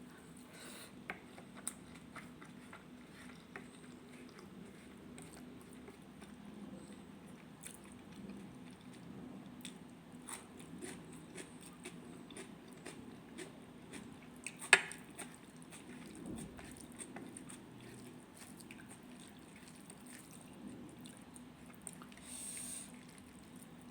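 A person eating rajma and rice: soft chewing and mouth sounds with scattered small clicks, and one sharp click about fifteen seconds in, over a faint steady hum.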